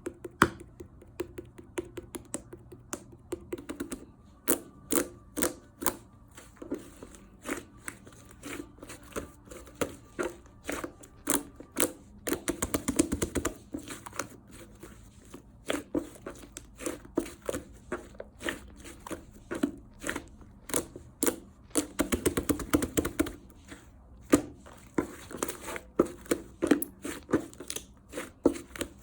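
Slime being pressed and squeezed by hand, making a run of sharp pops and clicks several times a second, with two stretches of denser crackling, one a little before halfway and one about three-quarters of the way through.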